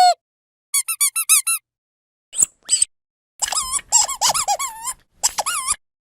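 Dog squeaky toy squeezed over and over in quick runs of short, pitched squeaks with silent gaps between. There is a run of about six about a second in, two higher squeaks in the middle, then a longer, rougher run of squeaks and a shorter one near the end.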